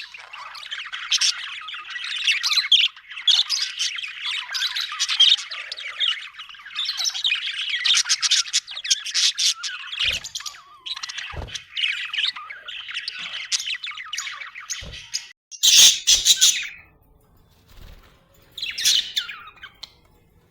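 Budgerigars chirping and chattering densely, with a loud squawk about 16 seconds in; the chatter then thins to a single burst near the end. A few soft thuds sound in between.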